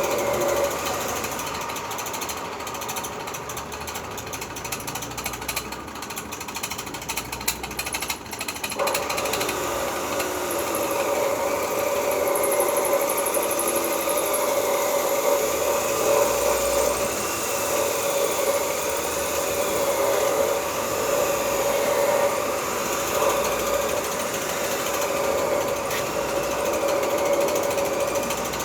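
A power tool running steadily and loudly, with a rapid chattering under a held hum; the hum drops out for a few seconds and comes back about nine seconds in.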